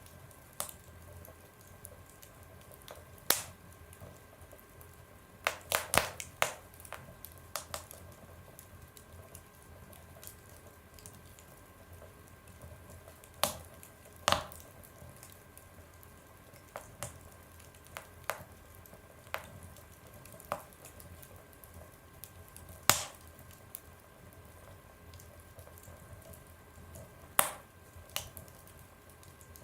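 Fire burning in a stove, crackling: sharp pops every few seconds over a low steady hiss, with a quick cluster of pops about six seconds in.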